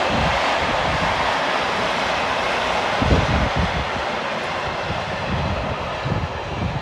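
Loaded timber wagons of a freight train rolling past along the rails as the train coasts downgrade: a steady rumble of wheels on track, easing a little after about three seconds.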